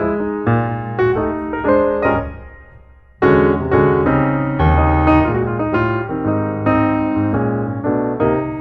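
Background piano music: chords and melody notes that die away to a brief pause about two and a half seconds in, then start again.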